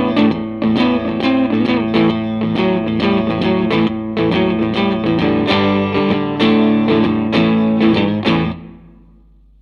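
Electric guitar, a Fender Stratocaster, played through a Line 6 Helix amp-and-cab model: picked notes and chords with an effect on them. The playing stops about eight and a half seconds in, leaving a steady low hum.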